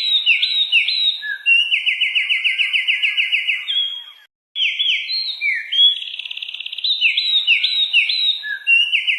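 Songbird singing fast trills and rolled phrases with sharp down-slurred notes. The song breaks off for a moment about four seconds in, then the same run of phrases starts again, as in a looped recording.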